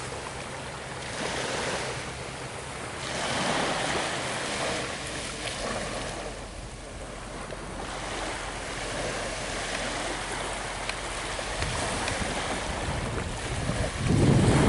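Ocean surf washing ashore, the wash swelling and fading every few seconds. Near the end, a gust of wind buffets the microphone with a low rumble.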